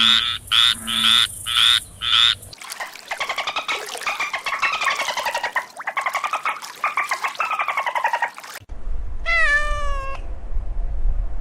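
A run of animal calls. First, short croaking calls about three or four a second; then, from about two and a half seconds in, a long fast-pulsing trill that wavers up and down in pitch. Near the end, a cat gives one drawn-out meow that falls in pitch, over a low rumble.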